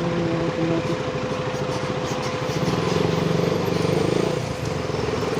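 Motorcycle engine running steadily under way, its note swelling a little about three seconds in and then easing back.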